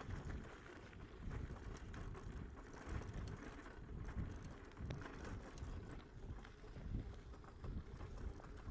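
Footsteps and the low rattle and rumble of a bicycle being walked down a dirt trail, with irregular soft thumps.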